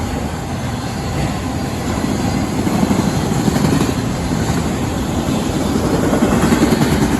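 Auto rack freight train passing close by: a loud, steady rumble of rolling wheels and rattling cars that swells a little partway through.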